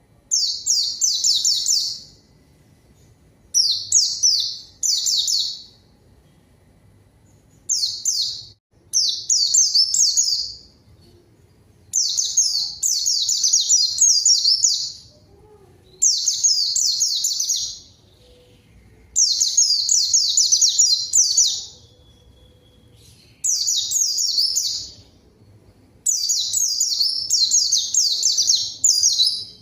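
White-eye (pleci) song: rapid, high twittering phrases in bursts of one to three seconds with short pauses between them. This is the vigorous 'gacor' song used as a bait call to get other white-eyes to answer and sing.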